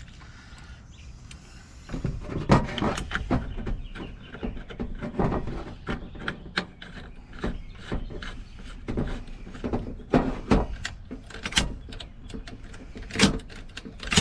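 Baldwin mortise lock and door hardware being worked: irregular metallic clicks and knocks of the latch and handle mechanism, starting about two seconds in, as the repaired lock is tested.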